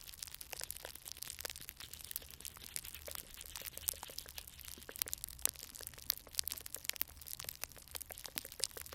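Glue stick rubbed on a microphone, making a dense, irregular run of sticky crackles and clicks that imitates rain.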